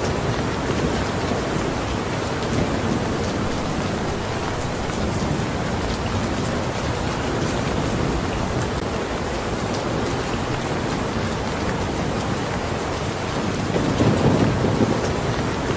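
Steady heavy rain, with a brief low rumble of thunder swelling about fourteen seconds in.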